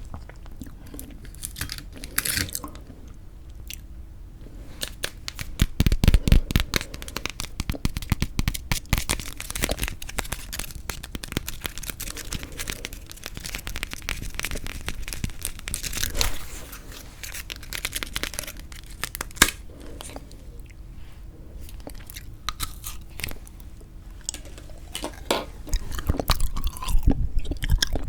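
Close-miked eating of frozen sweet red bean jelly (yanggaeng): irregular crunching and wet chewing, with louder flurries of bites about six seconds in, around the middle, and near the end.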